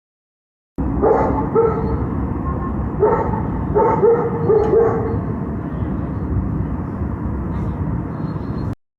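A dog barking several times in quick short barks over a steady rush of blizzard wind on the microphone. The barks come in the first half, then the wind goes on alone.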